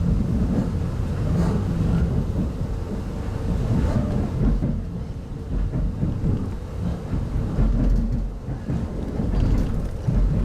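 Low, uneven rumble of a passenger train heard from inside a 25T-series coach as it runs on the rails.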